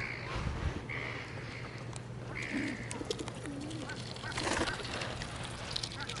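Barnacle geese close by making a few short, soft calls, with a brief noisy burst about four and a half seconds in and some light clicks.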